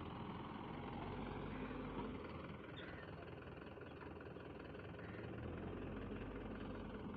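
A diesel engine of heavy farm or earthmoving machinery running steadily at low revs, with no marked revving or sudden events.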